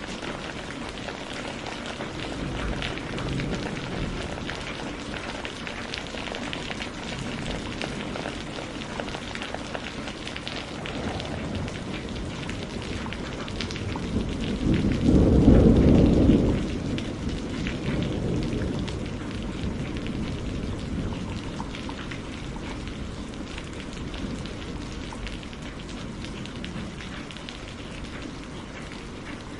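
Steady rain falling, with many fine drop ticks, and a roll of thunder that swells loudly about halfway through and rumbles away over a few seconds.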